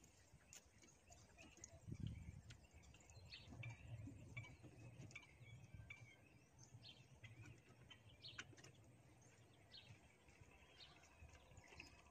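Faint outdoor ambience: scattered small bird chirps over a low, steady rumble.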